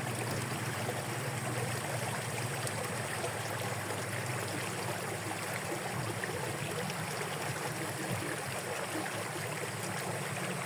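Steady rush of water flowing along a rain-swollen drainage ditch.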